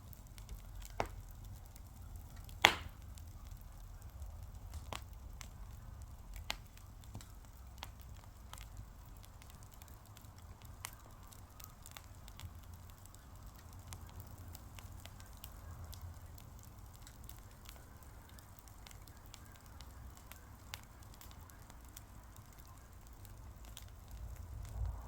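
Wood fire crackling: scattered sharp pops and small ticks over a low steady rumble, with one loud pop about three seconds in.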